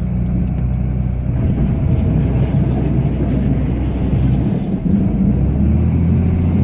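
Cummins turbo-diesel inline-six of a Ram pickup running under load while plowing snow, heard from inside the cab: a steady low drone whose pitch shifts about five seconds in.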